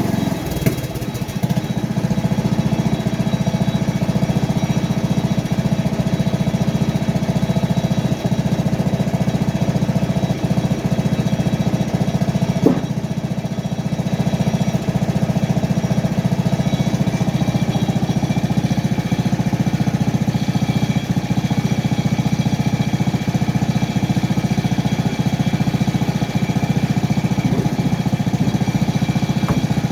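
Small gasoline engine of a portable bandsaw mill running steadily at a constant speed, with one sharp knock near the middle.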